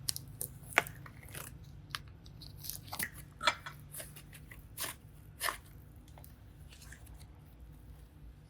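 Slime and clay being handled and squeezed, giving a run of irregular crackling clicks that thins out after about six seconds.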